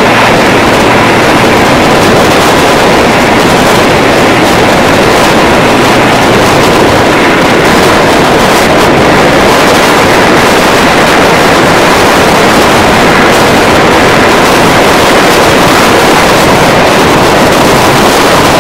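Loud, steady rush of wind buffeting the microphone held out of a moving passenger train's window, over the train's running noise.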